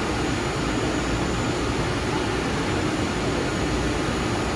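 ICE 3M high-speed train standing at a station platform, its fans and onboard equipment giving a steady rushing noise with a faint high whine.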